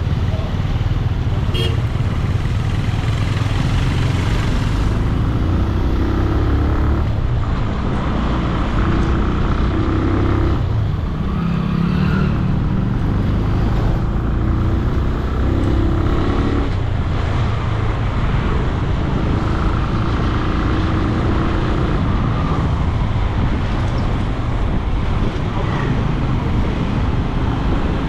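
Riding a motorcycle through city traffic: a steady low rumble of wind on the microphone and the bike's engine, with the traffic around it.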